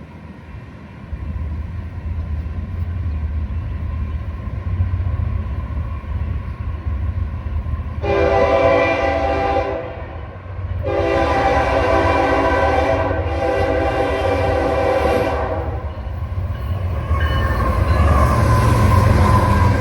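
An approaching train's multi-chime air horn sounds two blasts over a steady low locomotive rumble, the second blast longer than the first. Near the end the train's rumble and wheel noise grow louder as it comes closer.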